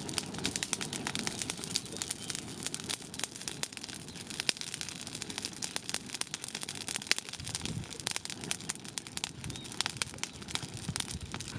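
Cooking fire crackling, with many quick sharp pops and snaps throughout.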